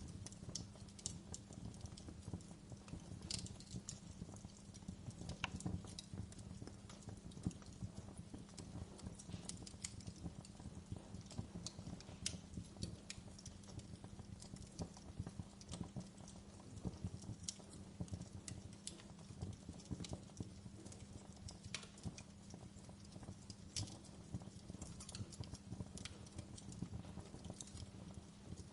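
Wood fire crackling in a fireplace: irregular sharp snaps and pops, several a second, over a steady low rumble of the burning logs.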